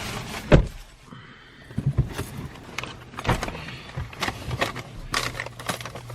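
Inside a car with the engine running: a steady low hum under a series of sharp clicks and knocks, such as doors, seat belts, keys or other handling inside the cabin.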